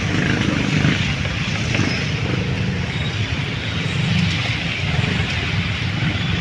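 Road vehicle running steadily on the move, its low engine hum under a broad rush of wind across the microphone.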